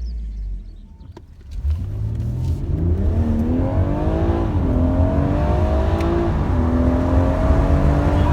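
BMW M140i's B58 turbocharged inline-six accelerating through the gears under its exhaust. After a brief lull about a second in, the engine note climbs, drops at an upshift about four and a half seconds in, climbs again and drops at a second upshift near six and a half seconds, then rises slowly.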